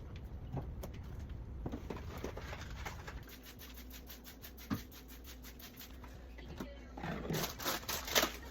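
Faint scrapes, clicks and light knocks of food containers and shelves being handled while a refrigerator is cleared out, with a few louder clatters near the end.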